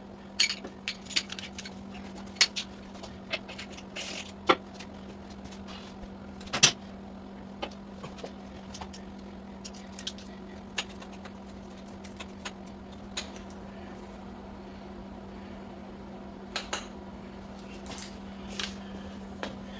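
Metal hand tools clinking and clicking irregularly as a socket and torque wrenches are handled, over a steady low hum.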